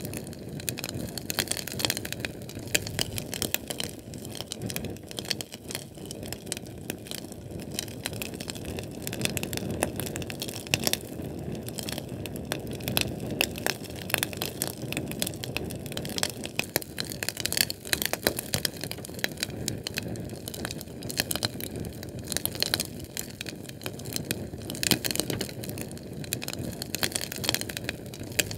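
Fire burning with a steady rush of flame and frequent irregular sharp crackles and pops.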